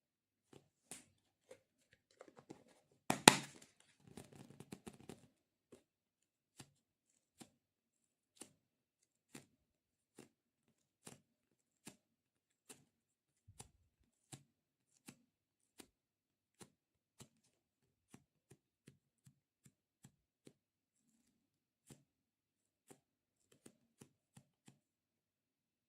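Light, crisp clicks from an object being handled, about one every three-quarters of a second, after a loud crackling burst about three seconds in and a quick flurry of clicks just after it.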